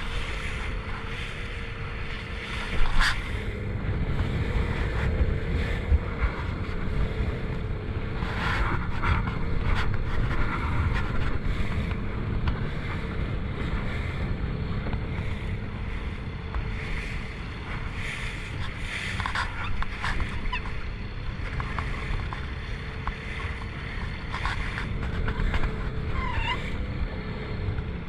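Motor launch under way at sea: a steady engine drone under heavy wind buffeting on the microphone and water rushing along the hull, with sharp slaps of the hull on the waves about three and six seconds in.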